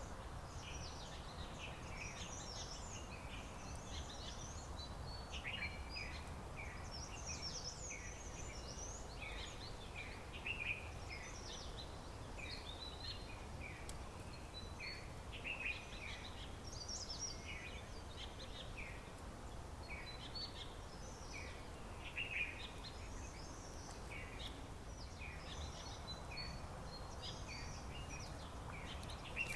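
Several wild birds chirping and calling in many short, overlapping notes, over a steady low background hiss.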